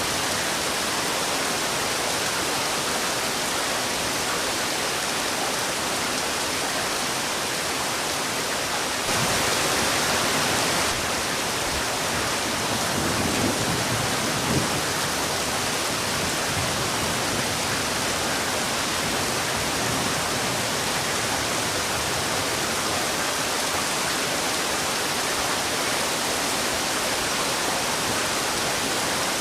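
Heavy rain falling in a steady, dense hiss, briefly a little louder about nine seconds in.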